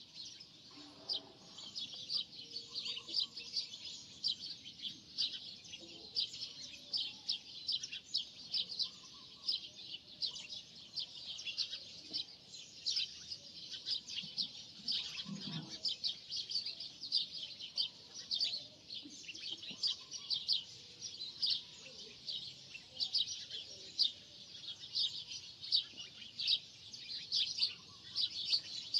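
Birds chirping continuously, a dense run of short, high chirps several a second.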